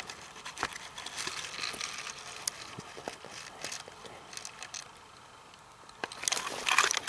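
Rustling of grass and leaves with small clicks and snaps of stems, louder about six seconds in.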